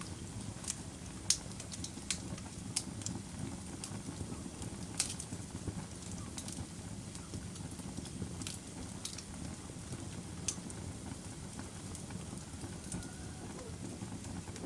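Wood fire in a fireplace crackling, with sharp pops at irregular intervals over a steady low rumble of the burning logs.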